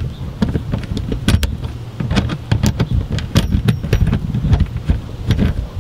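Irregular metallic clicks and rattles of screws and hand tools as a car's mudflap is unscrewed and worked free, over a low rumble of handling noise.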